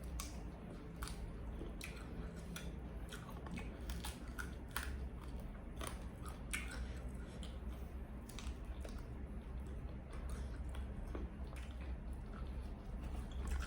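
A person chewing and biting food close to the microphone, with irregular crisp clicks, over a steady low hum.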